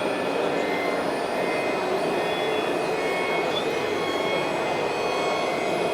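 Radio-controlled model trucks running: a steady, even mechanical noise with thin, high-pitched whines from small electric motors.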